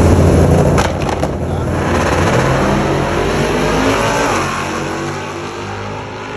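A car engine running loud, its rumble dropping off about a second in, then rising in pitch and falling away again near the middle as the sound slowly fades; a few sharp clicks come about a second in.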